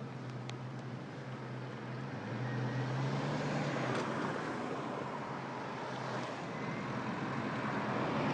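A car driving, heard from inside: a steady low engine hum under road and tyre noise, swelling slightly a few seconds in.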